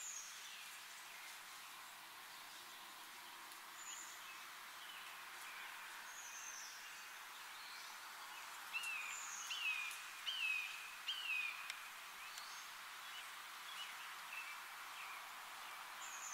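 Wild birds calling over a steady outdoor hiss: thin, high, downslurred calls every couple of seconds, and a quick run of four louder, lower downslurred calls about two-thirds of the way through.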